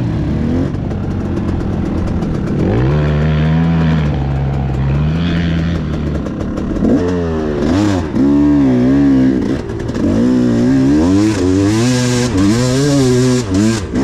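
Enduro motorcycle engine running, fairly steady at first, then revved up and down again and again through the second half, its pitch rising and falling several times.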